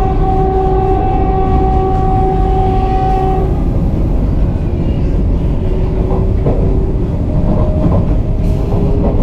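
Vande Bharat Express train running at speed with a heavy, steady rumble and occasional rail clicks. A train horn sounds in a long steady blast for the first few seconds, then in shorter tones again near the end.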